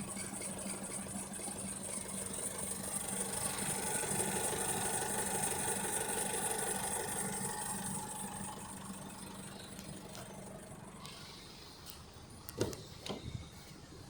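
Holden Colorado 3.0-litre four-cylinder turbo-diesel engine running at idle, its note swelling in the middle and fading after about ten seconds. A few sharp knocks follow near the end.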